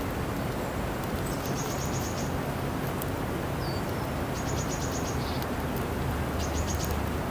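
A small bird singing short, high, rapid trills three times, with a brief falling chirp between them, over a steady low outdoor rumble.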